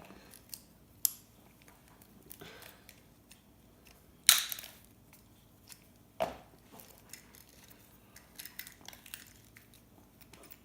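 Scattered sharp clicks and snaps of a hand tool stripping gold-plated pins from scrap circuit boards. The loudest snap comes about four seconds in, with a brief ringing tail, and lighter ticks follow near the end.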